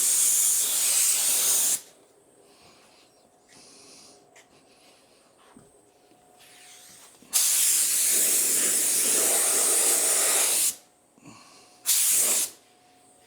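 Compressed-air paint spray gun hissing in three passes: one ending about two seconds in, a longer pass of about three seconds in the middle, and a short burst near the end. It is laying on a second coat at high air pressure.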